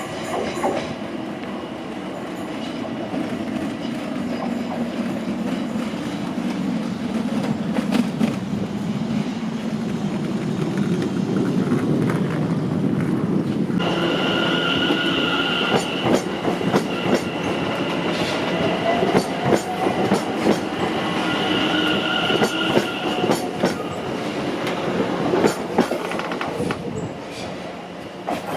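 A train passing close by: a steady rumble with wheels clicking over rail joints. From about halfway it is joined by high-pitched wheel squeal that comes and goes.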